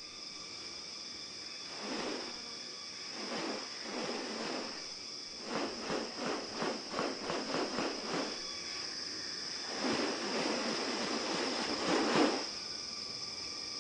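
Rainforest insects keeping up a steady high-pitched drone, broken by several rasping bursts, including a quick run of about eight pulses in the middle and a longer burst near the end.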